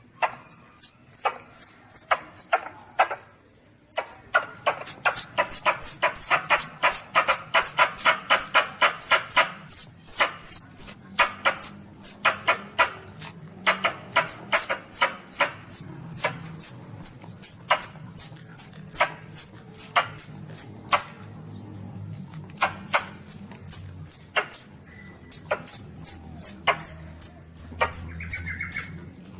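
Young Asian palm civet (luwak) giving a long series of short, high squeaks, each falling in pitch. About four seconds in they quicken to roughly five a second, then thin out to a slower, uneven run. This is a lure call for hunting civets.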